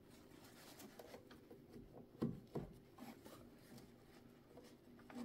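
Faint rubbing and small scattered clicks from hand-cleaning grime out of a sewing machine's works, with two light knocks a little over two seconds in.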